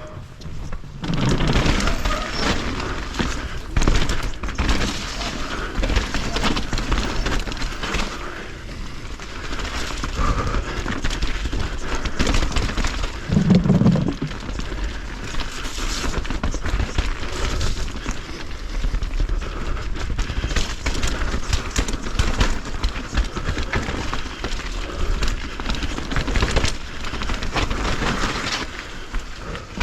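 Mountain bike ridden over rough, wet trail, picked up by the camera on the bike or rider: a continuous rush of tyre and trail noise with the bike rattling and knocking over bumps. A heavier thump comes about halfway through.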